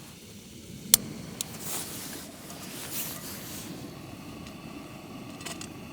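Wind rumbling on the microphone, with rustling and a sharp click about a second in.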